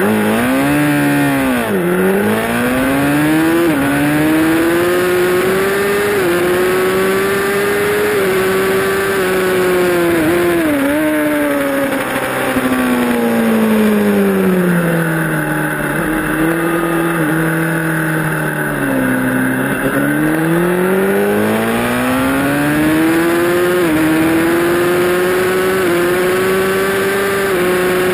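Honda CBR1000RR's inline-four engine under hard acceleration, heard from onboard. It revs up through the gears with quick upshifts and holds high revs. Around the middle the pitch falls in steps as it downshifts for braking, then it revs up through the gears again.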